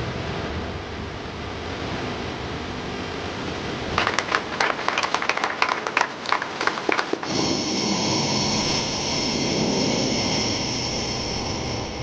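Jet aircraft noise: a steady rush, broken about four seconds in by some three seconds of sharp irregular clicks. From about seven seconds a steadier jet engine rush with a high turbine whine takes over.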